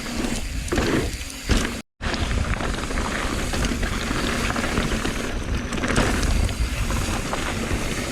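Mountain bike on the move: steady wind rumble on the camera microphone with tyre and drivetrain noise. The sound cuts out for an instant about two seconds in.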